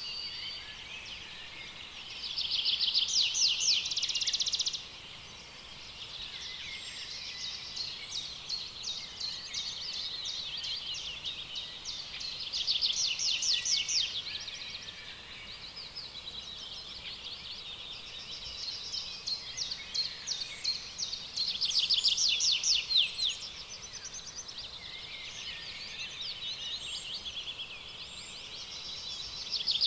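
Rainforest ambience of high-pitched animal calls: rapid, buzzy pulsed trills that swell into louder bouts of a couple of seconds, four times, over a continuous softer chatter.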